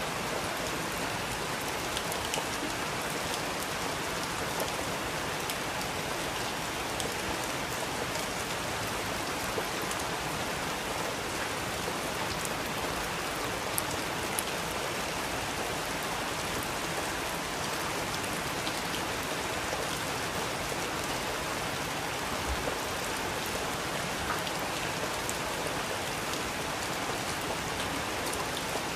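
Steady rain falling on a surface, with individual drops ticking here and there.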